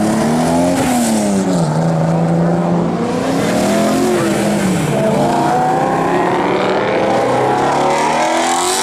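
A car engine revving hard as the car accelerates away. Its pitch climbs and drops back in the first couple of seconds, then makes a long steady climb before falling off near the end.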